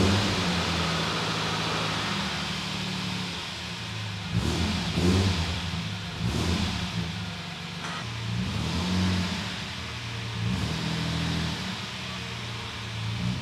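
1991 Nissan GQ Patrol's engine firing up after sitting for about three weeks, then idling with about five short blips of the throttle.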